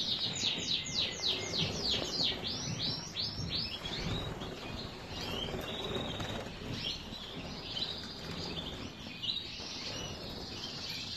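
A bird singing: a fast run of high notes, each sweeping downward, about four a second for the first three seconds, then scattered short chirps.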